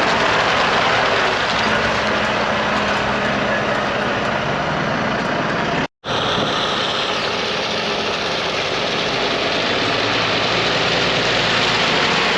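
Heavy lorry diesel engines running steadily, a dense rush of engine and exhaust noise with a low hum beneath. The sound cuts out completely for an instant about six seconds in.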